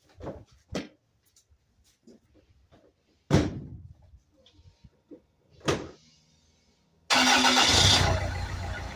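Two heavy thumps at the Land Rover Freelander, the first a door shutting. About seven seconds in, its engine starts at once, running loud for about a second before settling to a steady idle.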